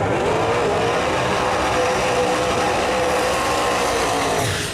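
Drag-racing car engine running loud at high, nearly steady revs, its pitch climbing briefly and then holding. It drops away about four and a half seconds in.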